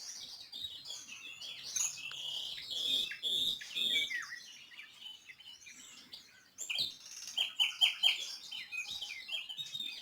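Birds chirping and twittering in quick, high calls, with a short lull around the middle.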